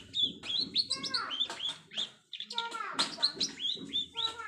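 Songbird song: a rapid, varied string of chirps and whistles, many short notes sweeping downward, with brief pauses, in the manner of a mimicking 'isian' song.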